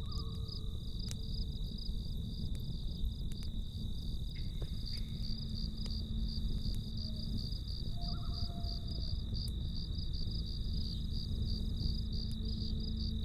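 Crickets chirping in a fast, even pulse over the low hiss of a campfire, with scattered sharp crackles from the burning wood. A faint steady low drone runs underneath.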